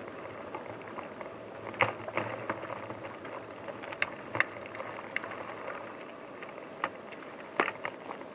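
Movement over a forest floor, likely with a bicycle: a steady rustle broken by about a dozen irregular sharp snaps and rattling clicks, the loudest about two, four and seven and a half seconds in.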